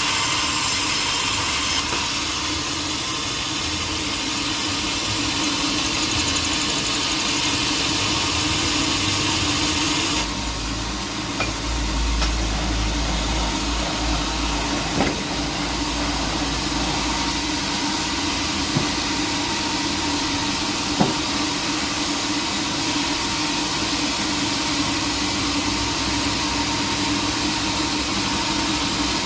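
Sawmill machinery running steadily without cutting wood, with a few sharp knocks in the second half.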